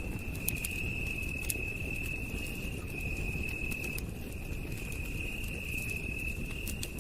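Campfire crackling, with scattered sharp pops over a low rumble of burning wood, under a continuous high-pitched night-insect trill that drops out briefly a few times.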